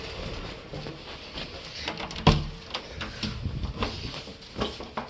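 Scattered clicks and knocks, with one louder knock a little over two seconds in, over a faint steady hum.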